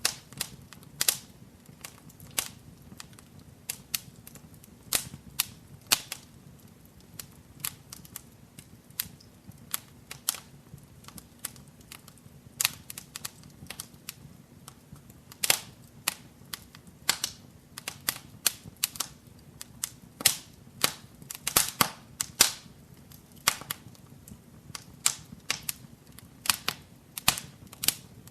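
Wood fire crackling in a fireplace: irregular sharp pops and snaps, a few every second, over a faint low rumble of the flames.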